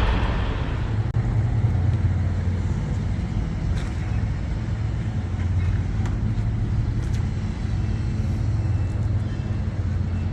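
Big-rig truck's diesel engine running steadily with a low, even hum, a brief rush of noise fading out in the first half second and a few faint clicks.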